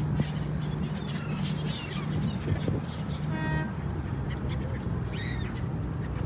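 Seagulls calling a few times, short high cries, over a steady low engine hum.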